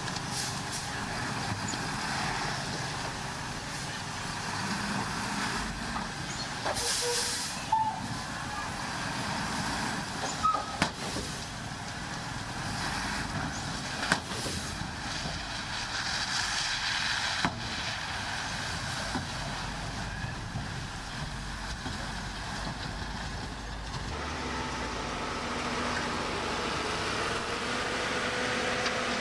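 Diesel engines of heavy earthmoving machines and dump trucks running steadily. A short hiss of air comes about seven seconds in, and a few sharp knocks are scattered through. The engine note changes near the end.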